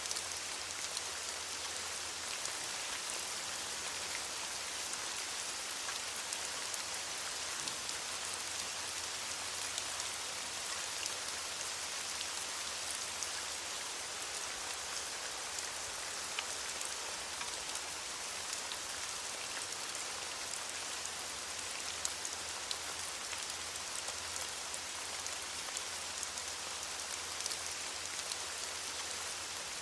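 Steady rain falling on leaves: a dense, even hiss with many small ticks of individual drops.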